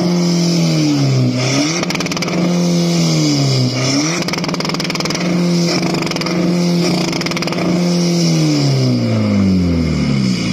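Car engine revved and held at high revs, with the revs dropping briefly twice and then falling away near the end.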